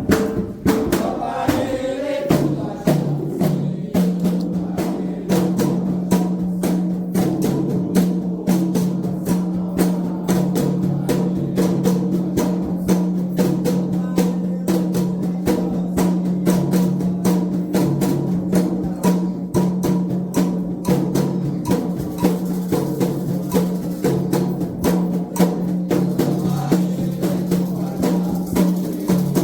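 Candomblé ritual drumming: atabaque hand drums struck in a fast, steady rhythm of sharp strokes, with a steady low tone held underneath.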